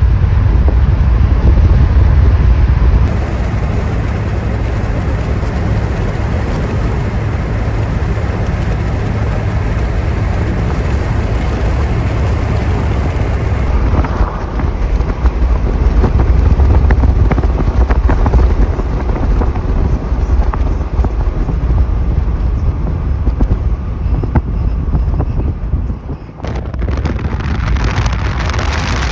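Storm wind buffeting the microphone: a loud, steady low rumble with hiss above it, changing abruptly a few times.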